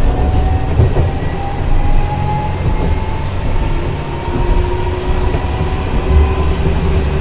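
Tram running on its rails with a heavy low rumble and a thin motor whine that rises slowly in pitch as it gathers speed.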